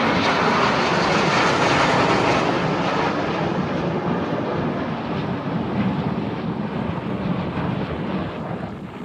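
Fixed-wing display aircraft flying past, loud at first, then fading and losing its higher pitch as it moves away.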